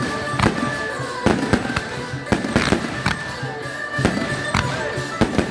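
Fireworks display going off, about a dozen sharp bangs at irregular intervals, with music playing underneath.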